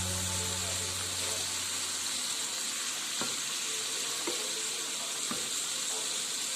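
Food frying in a hot pan: a steady sizzling hiss, with a few faint taps a few seconds in.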